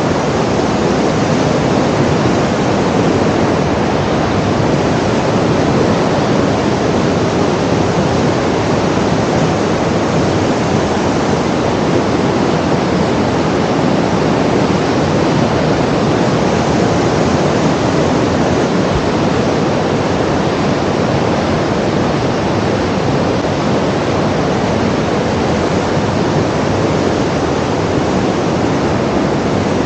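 A steady, even rushing noise that never changes or breaks.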